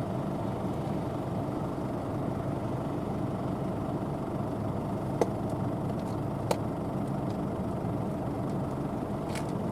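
Claas Lexion 770 TT combine harvester running steadily, with two short sharp clicks a little past halfway.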